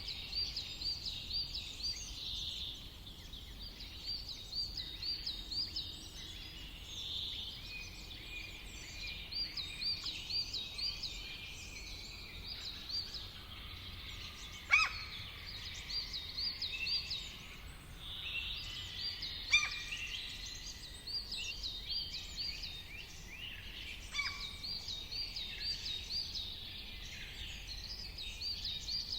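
Several wild birds singing and calling together, one repeating a quick series of looping high notes in phrases of a few seconds, with two sharp loud calls about halfway through and a little later.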